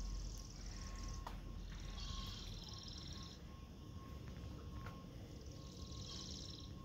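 Small birds trilling faintly in short, high-pitched phrases, three times, over a low rumble.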